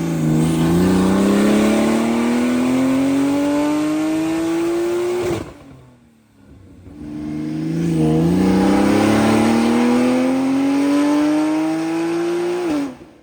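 Porsche 992 Turbo S twin-turbo flat-six with a titanium exhaust making two full-throttle pulls. Each rises steadily in pitch for about five seconds, then cuts off sharply as the throttle closes.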